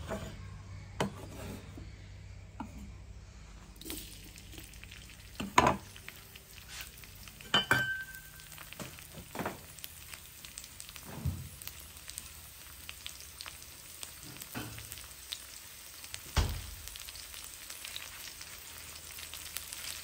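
Chopped garlic and red chili frying in hot oil in a wok, a steady fine sizzle, with a few sharp knocks scattered through.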